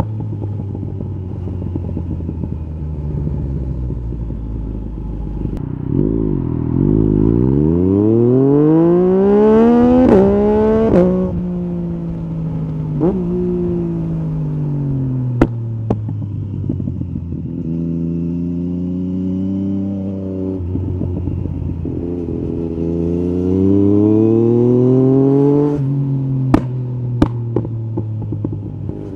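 Yamaha MT-09 SP's three-cylinder engine through an Akrapovic carbon Racing-Line exhaust with the dB killer removed, ridden hard. It runs low at first, revs up hard from about 7 s with two quick upshifts around 10 and 11 s, eases off, then pulls hard again to about 26 s, followed by a few sharp exhaust pops as the throttle closes.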